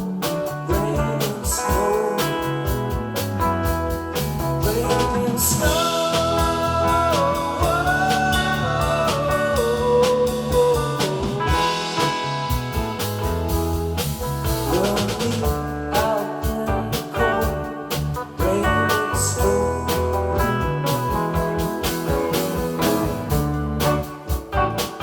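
A band playing a blues-rock tune: a wavering, bending electric guitar lead over sustained chords, bass and a steady drum beat.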